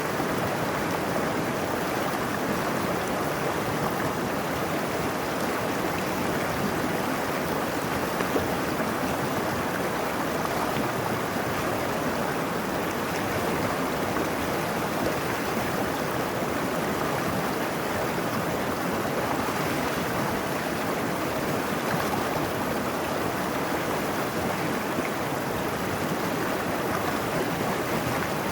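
Mountain stream rushing steadily over rocks, a constant full splashing flow.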